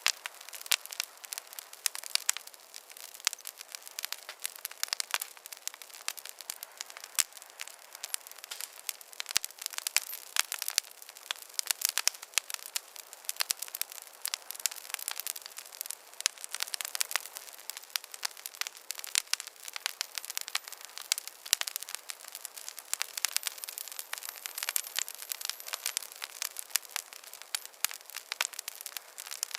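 Wood campfire burning, a dense run of irregular crackles and pops over a soft hiss.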